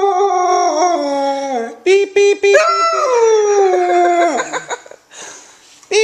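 Siberian husky puppy howling: two long howls that slowly fall in pitch, with a few short yips between them about two seconds in.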